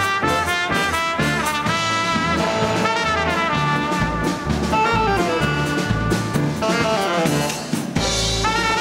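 A big-band dance orchestra playing live in the 1930s–40s Latin and swing style: trumpets and trombones carry the melody over drums and bass. The horn lines slide down in pitch in places.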